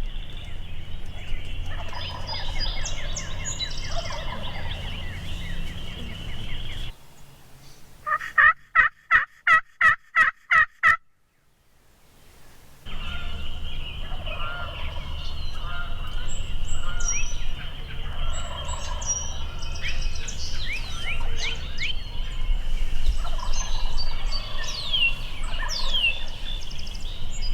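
A series of about nine evenly spaced turkey yelps, about three a second, standing out loud. Around them, songbirds chirp and sing over a steady high-pitched drone, with low wind rumble.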